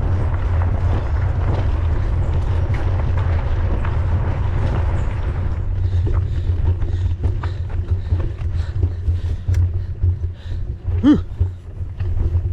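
Mountain bike ridden at speed on a forest trail: wind buffets the microphone in a constant low rumble, while the bike rattles and clicks over the rough ground, the clicks growing more frequent about halfway through. A short pitched sound cuts in near the end.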